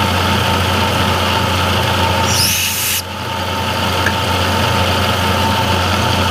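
Milling machine running steadily while milling slots, with a brief high-pitched hiss and squeal about two and a half seconds in.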